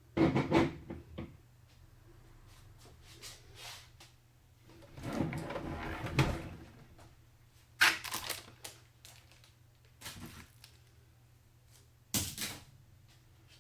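Hands handling computer parts and the case during a PC build: a quick run of clicks and knocks at the start, a longer scraping rustle about five seconds in, then single sharp clicks and clacks near eight, ten and twelve seconds in, over a low steady hum.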